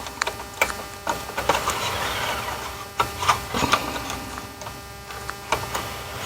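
Irregular plastic clicks, taps and scrapes as a small wire connector is pried by its locking tab and wiggled off an instrument cluster circuit board.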